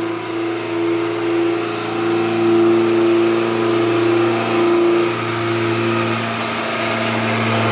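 Honda B20 VTEC four-cylinder engine on open headers idling steadily, growing slightly louder for a few seconds in the middle.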